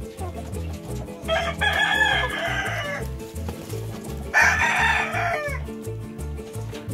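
Gamecock roosters crowing twice, the first crow about a second in and the second about four seconds in, over background music with a steady low beat.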